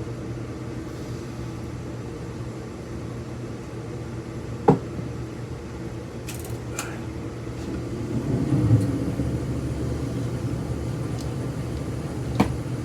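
Copper winding being worked out of a ceiling fan motor by hand: a few sharp metallic clicks and clinks, and a louder, longer bout of noise about eight seconds in, over a steady low hum.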